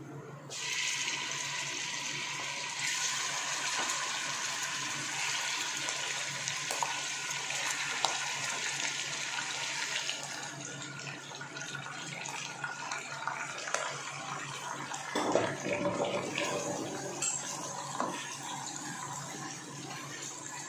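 Raw chicken pieces sizzling as they are dropped into hot oil in a nonstick pot. The sizzle starts suddenly about half a second in, stays loud for about ten seconds, then settles to a softer sizzle with a few knocks.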